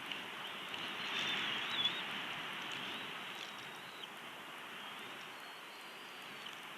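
Steady rain hiss on the nest-cam microphone, with a few drop taps. Faint, high, wavering bird calls come in around the first two seconds and again near the end.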